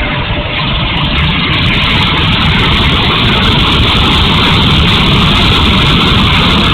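70mm electric ducted fan of an E-flite F-16 RC jet running at high power: a loud, steady rushing noise with a low rumble, growing louder over the first second and then holding steady.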